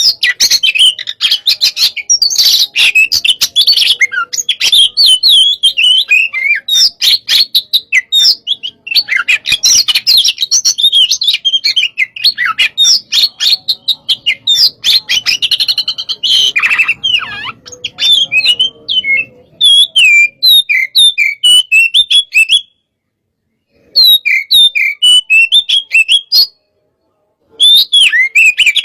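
Oriental magpie-robin (kacer) singing a loud, fast, aggressive 'hot-type' song of rapid whistled, chattering and clicking notes. The song cuts out to dead silence twice near the end.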